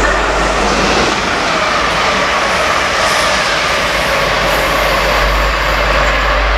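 Modern passenger train running past, a steady rushing rumble with faint tones that slowly fall in pitch. A strong low rumble of wind on the microphone lies under it.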